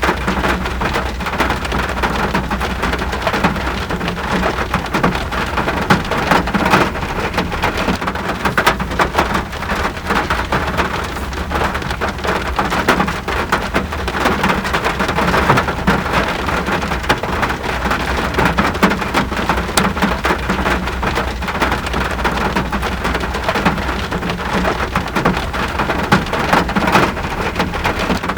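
Steady rain falling: a dense, even hiss made of countless small drop impacts, unchanging throughout.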